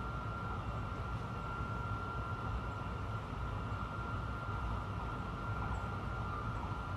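Honolulu elevated metro train running at speed, heard from inside the front car: a steady low rumble of wheels on the track, with a constant high-pitched tone over it.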